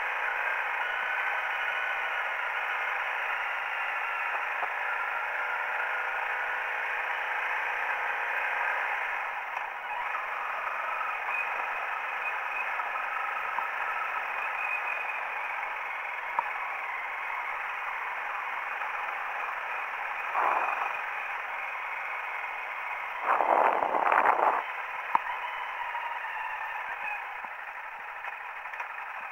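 Honda CRF250L's single-cylinder four-stroke engine running under way on a dirt track, heard thin and tinny through the camera microphone with a steady wash of wind and road noise. There are two louder, rougher surges, a short one about two-thirds of the way in and a longer one a few seconds later.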